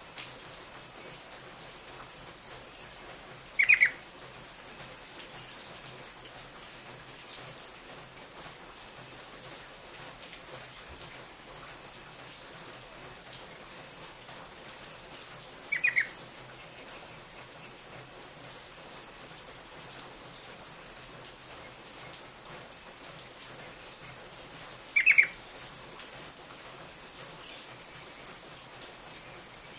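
A yellow-vented bulbul (trucuk) giving three short, loud calls several seconds apart, over a steady hiss.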